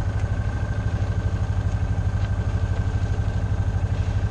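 Engine of the vehicle being ridden in, running steadily at low speed: a low rumble pulsing at an even beat, with a thin steady whine above it.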